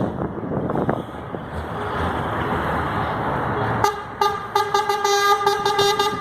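Road traffic rumbling. About four seconds in, a truck's horn starts sounding in a rapid string of short toots.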